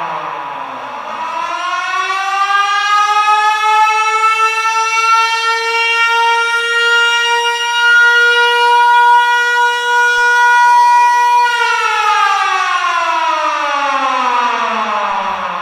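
Air-raid siren sounding a single loud tone. It winds down to a low pitch at the start, winds back up over a couple of seconds to a steady high tone held for about seven seconds, then winds down again near the end.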